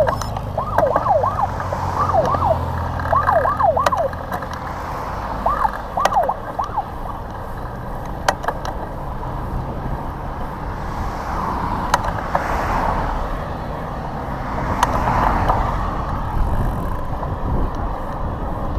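Police car siren in yelp mode, sweeping quickly up and down in three short bursts during the first seven seconds. Steady wind and road rush follows.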